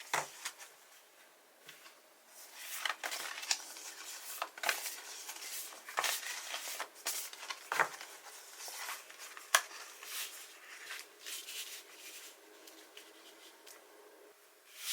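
Paper and sticker sheets being handled close to the microphone: soft irregular rustling with scattered light taps and clicks, one sharper click about nine and a half seconds in.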